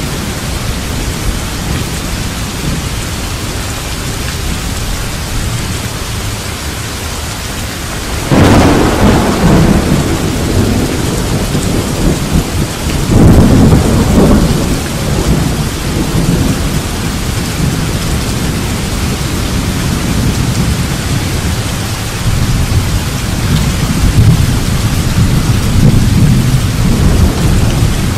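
Rain falls steadily throughout. A sudden crack of thunder hits about a third of the way in and rolls off into a rumble, and a second thunderclap follows around halfway. A low rumble swells again near the end.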